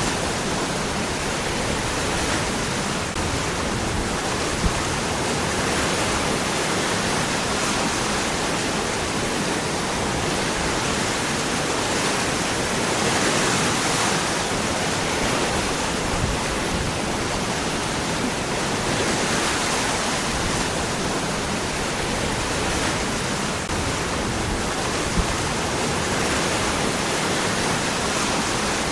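Waterfall: water falling among rocks, a steady, unbroken rush.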